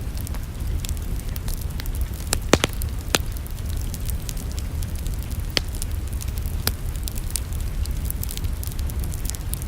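Fireplace fire crackling: scattered sharp pops and snaps, with a quick run of louder snaps about two and a half to three seconds in, over a steady low rumble.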